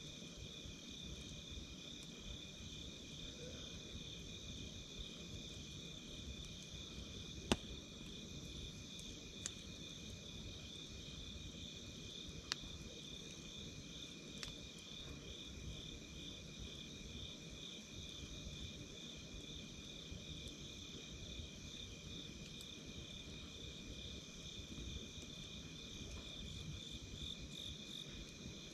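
Night insects calling steadily in two pitches, one a continuous high trill and one a fast pulsing chirp, over the low bed of a wood campfire. A few sharp crackles from the burning wood cut through, the loudest about seven and a half seconds in.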